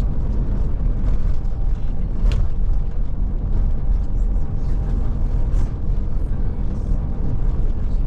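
Scania Touring coach under way: a steady low drone of engine and road noise, heard from inside the cabin.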